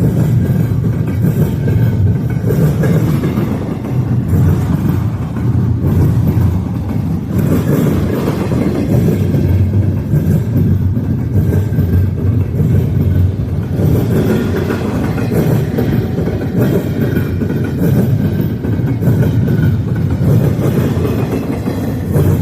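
Freight train passing: a steady, loud rumble of rolling railcars on the track.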